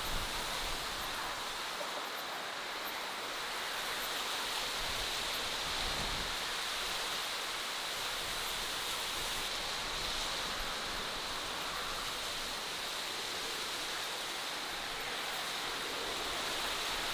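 Steady, even rushing hiss of outdoor natural ambience, with a faint high steady tone running through it and a few faint ticks.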